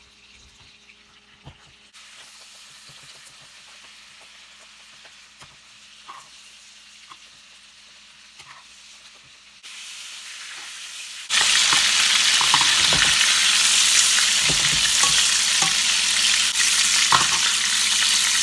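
Seasoned chicken thighs frying in melted butter in a pan: a faint sizzle at first, then much louder sizzling that starts abruptly about two-thirds of the way through, with a few short knocks.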